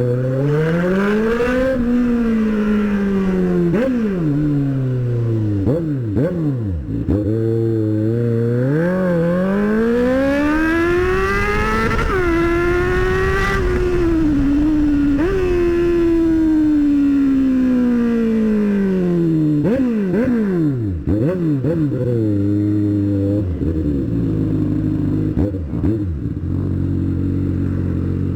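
Motorcycle engine accelerating: its pitch climbs in steps with short dips at the gear changes, holds high for a few seconds, then falls away as the bike slows and settles to a low, steady idle-like note near the end.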